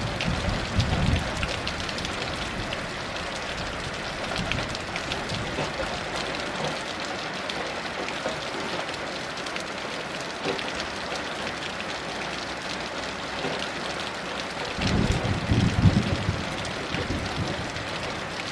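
Heavy rain falling steadily in a dense patter, with low rumbles of distant thunder at the start and again about fifteen seconds in.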